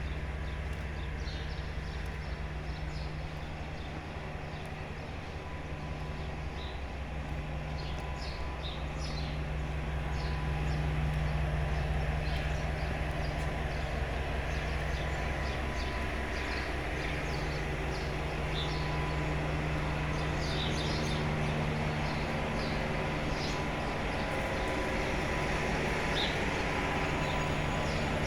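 Railway locomotive running with a steady low drone that grows louder about ten seconds in, with birds chirping intermittently.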